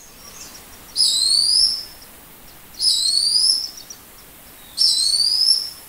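Crested goshawk calling: three shrill, whistled calls about two seconds apart, each rising in pitch, over a faint hiss.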